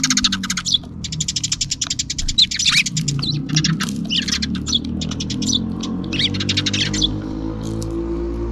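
A flock of Eurasian tree sparrows chirping and chattering in quick runs, thinning to scattered chirps after about three seconds, over a low droning hum.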